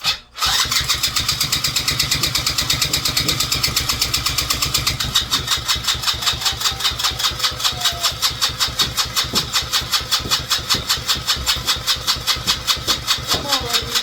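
Small engine being cranked by its electric starter, churning with a rapid, even chug of about seven compression strokes a second without catching: the engine turns over but will not fire.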